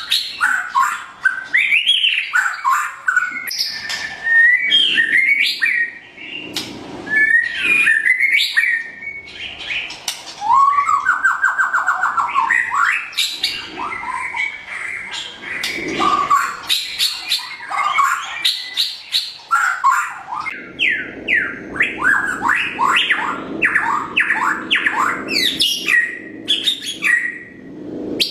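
White-rumped shama (murai batu, pied 'blorok' variety) singing a long, varied song of whistled and chattering phrases. A buzzy trill comes near the middle, and a fast run of quick falling notes comes in the last third.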